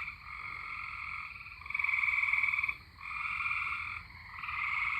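A chorus of tree frogs trilling, with overlapping trills about a second long following one another in quick succession.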